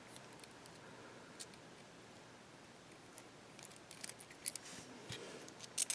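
Small screwdriver backing a screw out of a model locomotive's metal frame: faint scattered clicks and scrapes of the tool on the screw, more frequent in the second half.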